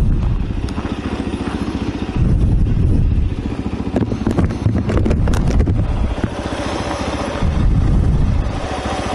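Motorcycle engine running near idle while the bike crawls at walking pace, growing louder twice for about a second at a time.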